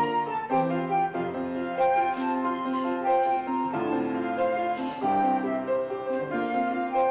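Slow instrumental music: a sustained flute-like melody over keyboard chords.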